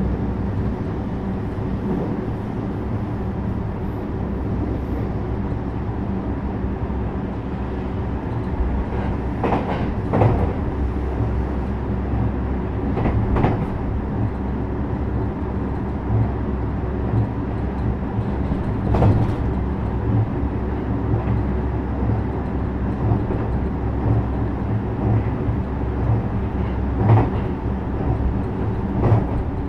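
JR West 321 series electric train running along the line: a steady rumble and motor hum, broken by a few sharp clacks of wheels over rail joints.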